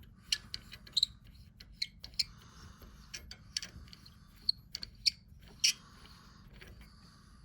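Small metal parts and a hand tool clicking, tapping and scraping at an espresso machine's group head as a part is worked loose: irregular sharp clicks with short scrapes between them.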